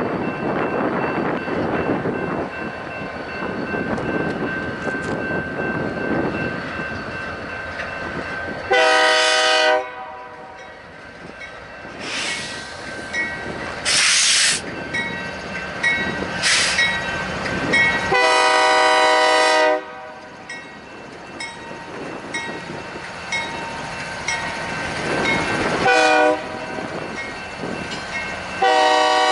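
Freight locomotive's multi-chime air horn sounding the grade-crossing signal: two long blasts, a short one, and a long one starting near the end. Wind on the microphone comes first, and a bell rings steadily between the blasts, with a few brief hissing bursts.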